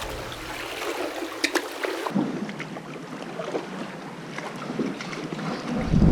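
Seawater lapping and sloshing around a kayak in a sea cave, with many short sharp drips and splashes. Near the end a low rumble of wind on the microphone comes in.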